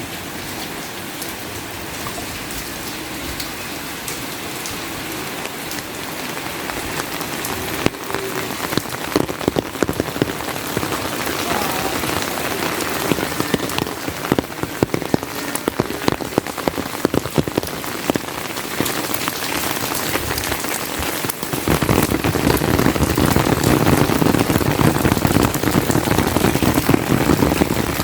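Steady rain falling, with many close drop hits. It grows denser about a quarter of the way in and turns heavier and louder, with more low sound, in the last quarter.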